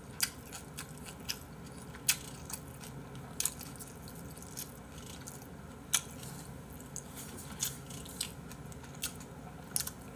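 Quiet mouth sounds of a person eating braised mackerel with dried radish greens and rice: chewing with about ten sharp, irregular clicks and smacks scattered through, the loudest about two seconds in and about six seconds in.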